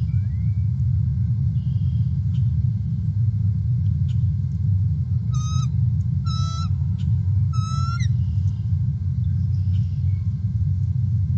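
Three short, high bird calls about a second apart, midway through, over a steady low rumble.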